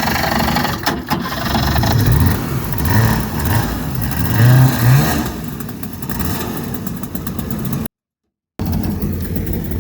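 Small jet boat's engine running and being revved, its pitch rising and falling several times in the middle of the stretch. The sound cuts out completely for a moment near the end.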